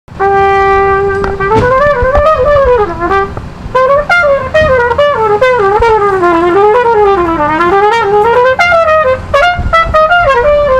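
Solo brass instrument playing a melody: a long held note, then quick runs up and down.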